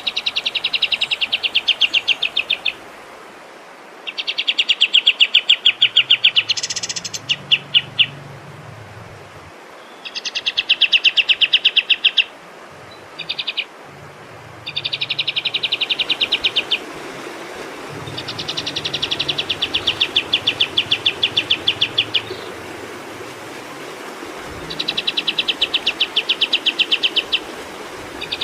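A songbird trilling in repeated bouts, each a fast run of sharp, evenly spaced notes lasting a few seconds, with short pauses between them. It is a recorded masteran song for training cage birds.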